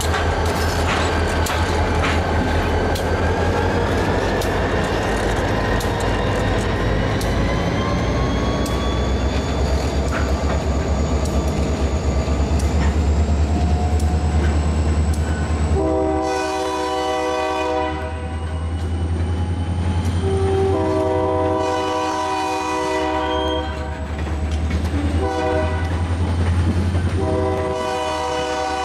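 Reading & Northern diesel-hauled freight train rolling past: a steady low engine rumble and wheel clicks as the covered hoppers go by, with a whine that rises slowly over the first dozen seconds. About halfway through, the locomotive's horn sounds three times, the second blast the longest and the last still going at the end.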